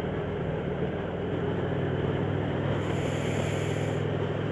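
Motorcycle engine running steadily at road speed, with wind rush on the helmet-mounted microphone and a brief higher hiss about three seconds in.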